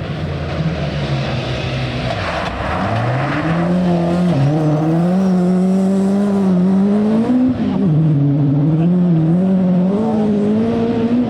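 Rally car engine under hard acceleration on a stage. Its note drops about two and a half seconds in, then climbs and rises and falls through gear changes and corners as the car gets louder.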